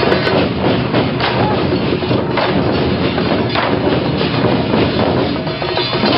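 A loud, dense festival din with sharp percussion strikes about every second, typical of a temple procession's drum and gong troupe.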